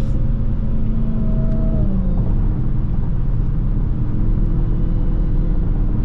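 Dodge Charger Hellcat's supercharged 6.2-litre HEMI V8 running steadily in traffic, its pitch stepping down about two seconds in and a new held tone coming in about four seconds in.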